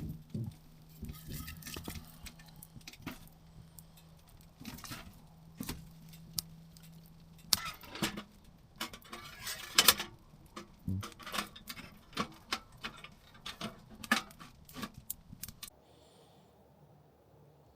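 Titanium tent wood stove burning hot, giving irregular sharp crackles and metallic clicks. They die away near the end.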